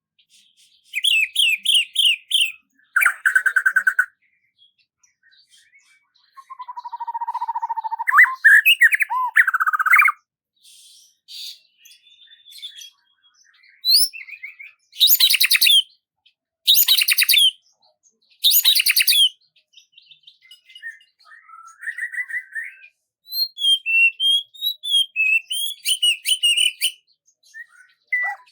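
Songbirds singing and calling in a string of separate short phrases: fast repeated chirps, trills and whistled notes, with clean silence between phrases.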